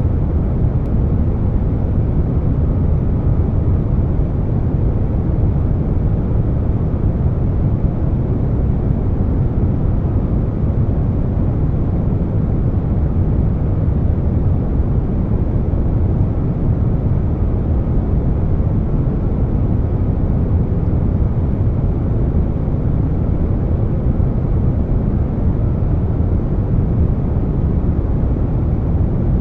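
Air conditioner noise blended with brown noise: a steady, unchanging whoosh that is heaviest in the bass and has little treble.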